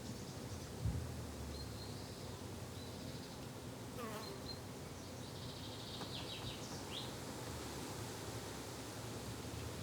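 Insects buzzing steadily, with short bird chirps here and there and a brief thump about a second in.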